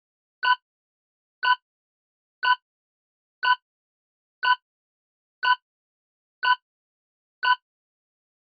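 Quiz countdown timer sound effect: short clock-like ticks once a second, eight in all, evenly spaced.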